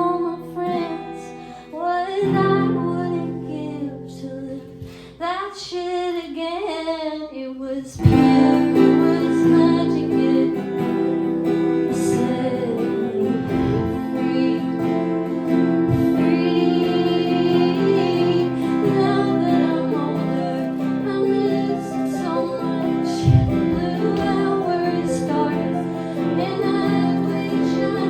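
Live acoustic song: a woman singing with guitar accompaniment. The first part is sparse. About eight seconds in, the music turns suddenly louder and fuller and keeps going.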